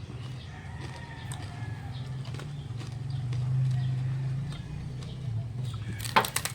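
Close-up eating sounds of crispy pata: mouth clicks and chewing, with a burst of loud crackling crunches near the end as the crisp pork skin is bitten. A steady low hum runs underneath.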